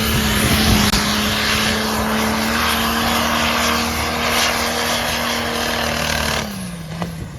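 Modified pulling tractor engine running flat out at steady high revs under load. About six and a half seconds in, the revs drop and the sound falls away as the throttle comes off.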